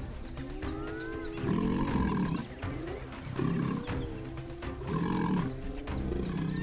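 Hyenas and a lioness fighting over a kill: rising and falling whooping calls over harsh growls and snarls that come about every one and a half seconds.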